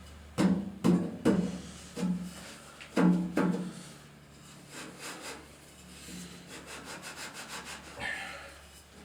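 Several hollow knocks with a short ring, then a rapid run of light ticks near the end: workshop handling and tapping while the piston of a Fuller Johnson hit-and-miss engine is worked into its cylinder.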